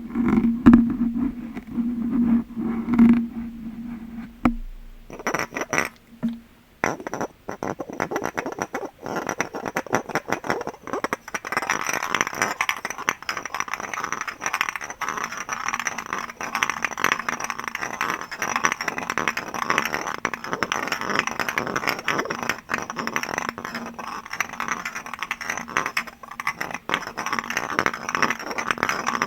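Tapping and scraping on glass objects. For the first few seconds there are scattered taps over a steady low tone. After a short pause, from about seven seconds in, a dense run of fast taps starts, with a thin high ringing tone under it.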